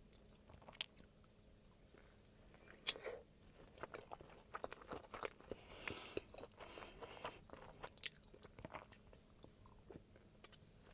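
Close-miked chewing of a sushi roll, with soft wet clicks and a few crunches from the shrimp tempura inside; the sharpest bites come about three seconds and eight seconds in.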